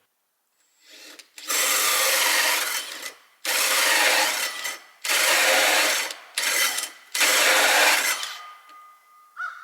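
Four long rasping strokes of a hand tool on wood, each about a second and a half, with short pauses between them.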